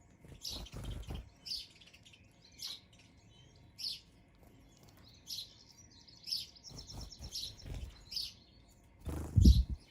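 Garden birds chirping in short, high calls about once a second, with a rapid trill of repeated notes around seven seconds in. Low thumps break in now and then, the loudest shortly before the end.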